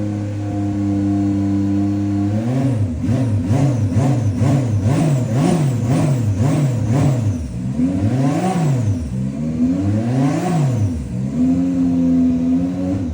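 Subaru BRZ GT300 race car's turbocharged flat-four engine and exhaust. It idles steadily, then takes a rapid series of about eight short throttle blips. Two longer, higher revs follow before it settles back to a steady idle near the end.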